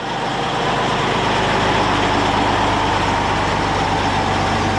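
Antonov An-225's jet engines (Progress D-18T turbofans) running steadily: a continuous engine rumble with a held whine, starting abruptly at the cut.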